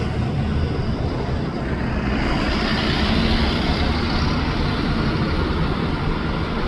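Jet airliner engines running with a loud, steady rumble. About two seconds in, a high hiss builds in, as an aircraft passes on takeoff or landing.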